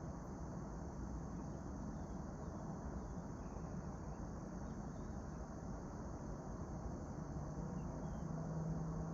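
Early-autumn outdoor morning ambience: a steady high insect drone, with a few faint, short, distant bird chirps. Under it runs a constant low rumble with a low hum that grows stronger near the end, like distant traffic.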